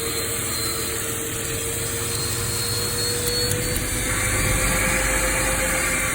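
Power Force compact vacuum cleaner running with a steady motor whine over a rushing airflow. About four seconds in, the whine steps up slightly in pitch and the hiss grows louder.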